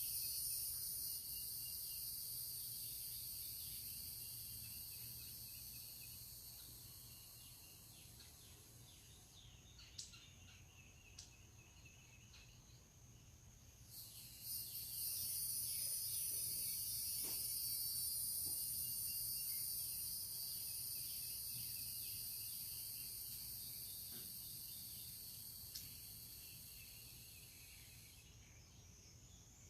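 High-pitched insect chorus buzzing. It fades away over the first several seconds, breaks off, then starts up again suddenly about halfway through, with a few scattered bird calls.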